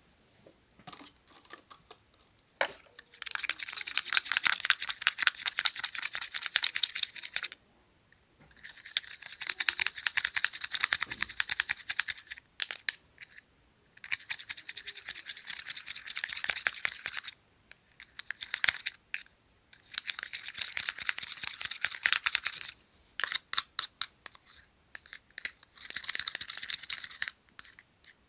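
Slime being worked by hand, crackling and clicking in five bursts of a few seconds each with short pauses between.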